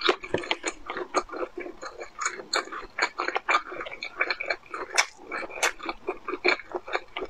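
A person chewing food close to a microphone: a dense run of short mouth clicks and chewing noises, several a second.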